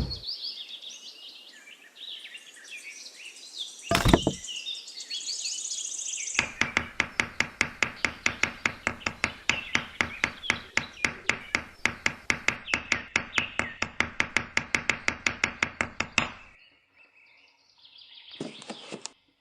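Birds chirping, with a single sharp click about four seconds in. Then about ten seconds of rapid, evenly spaced sharp knocks, about four a second, which stop abruptly.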